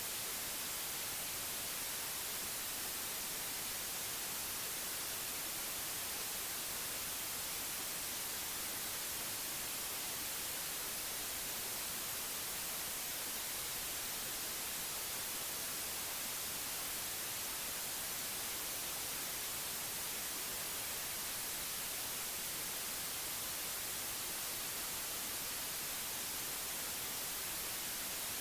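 Steady electronic white noise: an even, unchanging hiss weighted toward the high end, with no other sound in it.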